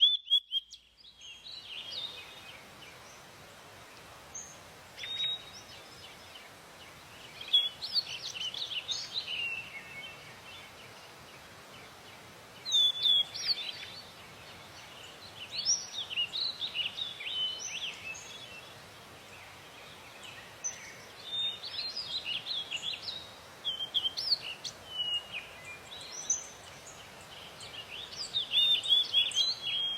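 Shallow river or brook babbling steadily, with a songbird singing short, chirping phrases over it every few seconds, each phrase louder than the water.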